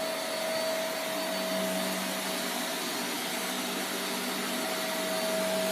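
Vacuum cleaner running steadily, a constant motor whine over airflow noise.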